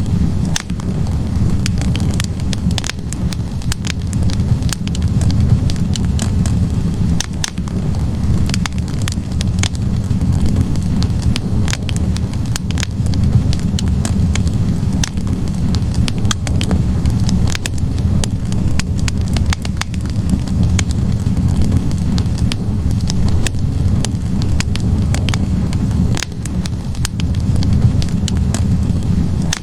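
Wood fire burning in a fireplace: logs crackling with frequent, irregular sharp pops over a steady low rush of flame.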